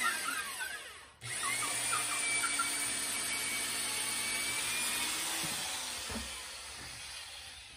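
Corded power drill boring through an 8-inch wooden sill beam, the motor running steadily under load. It stops for a moment about a second in and starts again, then winds down about five seconds in, followed by a couple of light knocks.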